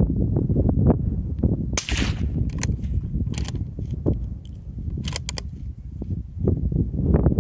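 One suppressed shot from a Bergara BMR-X .22 WMR bolt-action rifle about two seconds in, followed by several sharp metallic clicks as the bolt is worked. Wind rumbles on the microphone throughout.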